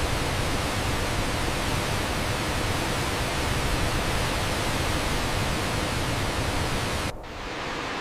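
Steady, even rushing outdoor noise with no distinct events. About seven seconds in, it abruptly becomes quieter and duller.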